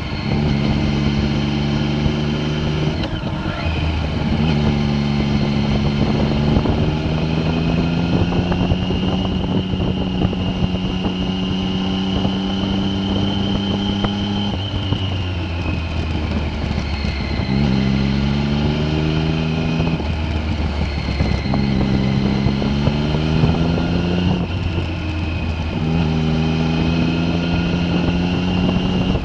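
A vehicle's engine running under load, its pitch holding steady for stretches, then dropping and climbing again several times, as with gear changes and the throttle coming off and back on. A fainter high whine rises and falls along with it.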